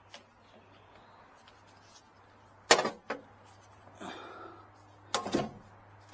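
Hard knocks and clunks of parts being handled at the generator: one sharp, loud knock a little before the middle with a lighter one right after, then a quick cluster of clunks near the end.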